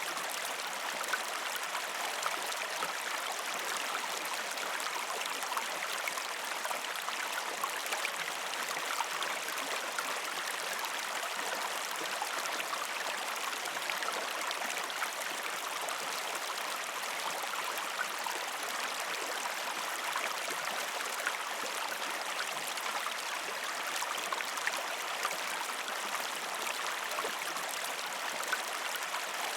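Gentle river stream flowing over rocks: a steady rush of water with fine splashing and gurgling, constant throughout.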